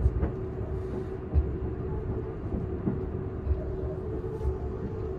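Cabin noise of a Seibu 001 series Laview limited express train under way: a steady low rumble of wheels on rail with a steady hum over it, and a few low thumps, the strongest about a second and a half in.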